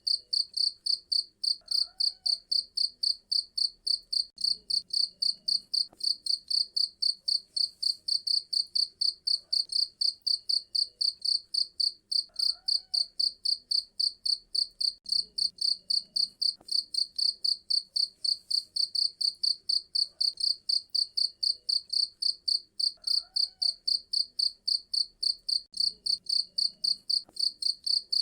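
Cricket chirping loudly and steadily, a high-pitched pulse repeating about three times a second.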